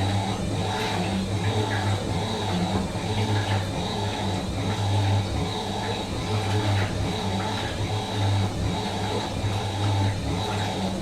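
Fisher & Paykel MW512 washing machine running: a steady motor hum that swells and eases irregularly.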